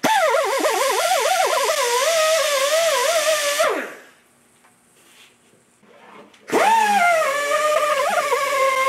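Electric power tool motor whining under a changing load, its pitch wavering, then spinning down. After a short pause it starts up again and spins down a second time.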